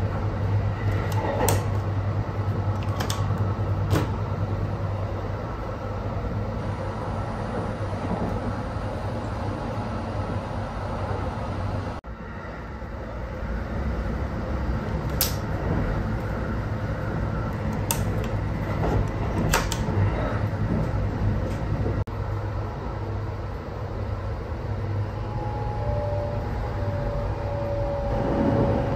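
Steady low rumble and hum of the Kintetsu Hinotori electric train running, heard from inside the car. A few sharp clicks and knocks from a luggage locker's door and lock are heard over it, and a faint steady tone comes in near the end.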